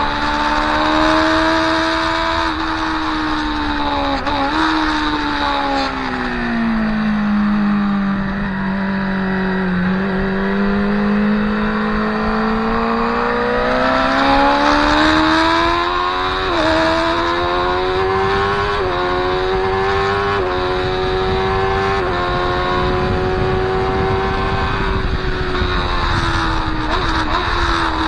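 Motorcycle engine at speed under wind rush, heard onboard. The engine note drops as the bike slows for a corner, then climbs again through a few quick upshifts, holds steady and eases off near the end.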